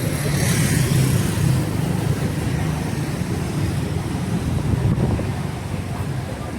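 Street traffic on a wet road: vehicle engines running with a steady low rumble. A hiss of tyres on the wet road rises and fades in about the first second and a half as a vehicle passes close.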